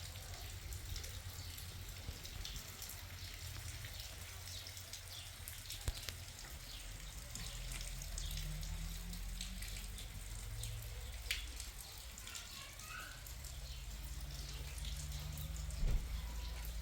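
Water dripping and pattering, with a low steady rumble underneath and a few sharper knocks.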